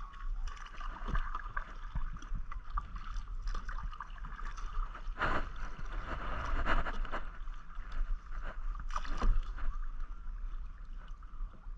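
Kayak paddles dipping and splashing in water, with irregular stroke splashes and drips, the loudest about five and nine seconds in.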